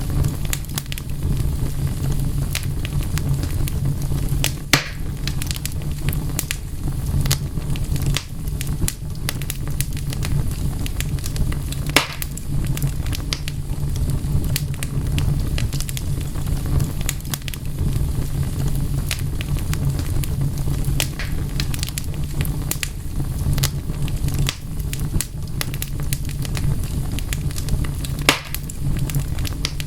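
Wood fire crackling: scattered sharp pops and snaps over a steady low rumble, with the loudest pops about five, twelve and twenty-eight seconds in.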